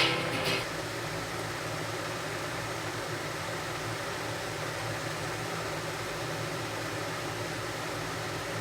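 Steady hiss of heavy rain pouring down, with a faint low hum under it; guitar music ends in the first half-second.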